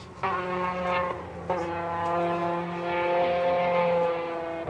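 Rally car engine held at high revs with a steady, slightly rising note. It cuts out briefly twice near the start, about a quarter second and a second and a half in.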